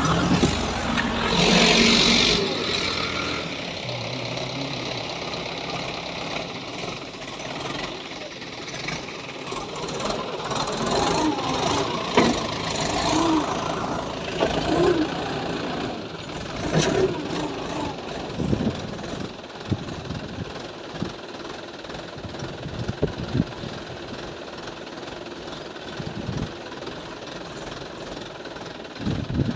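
Mahindra 575 tractor's diesel engine running, its level rising and falling, with a loud surge about two seconds in.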